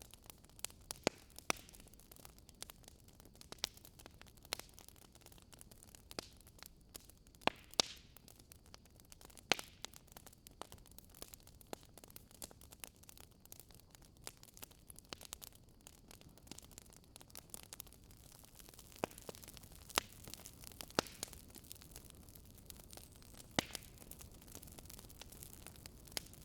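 Campfire burning quietly, with scattered irregular wood crackles and sharp pops over a soft steady hiss.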